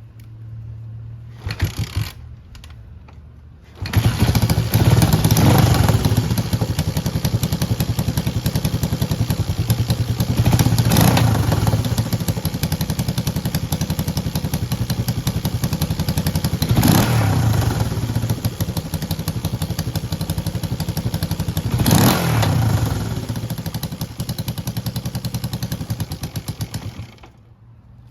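Honda CJ360's parallel-twin engine being started after an ignition timing adjustment: brief cranking and stumbling, then it catches about four seconds in and runs, with four rises in revs from throttle blips, before it is switched off sharply near the end.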